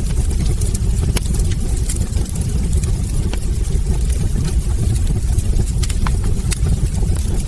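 Wood fire burning in a fireplace: a steady low rumble of flames with frequent irregular crackles and pops from the logs.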